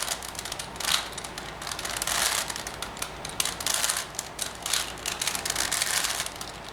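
Plastic 4x4 Rubik's Revenge cube being turned by hand, its layers clicking and clacking in quick runs of turns, as an edge-pairing algorithm is carried out on the last two edges.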